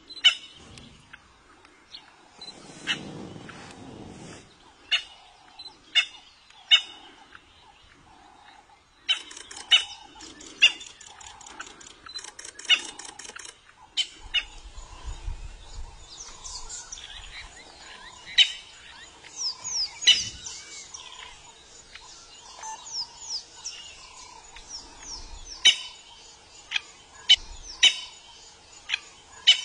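Birds chirping: many short, sharp calls throughout, with quick falling high whistled notes crowding in over the second half.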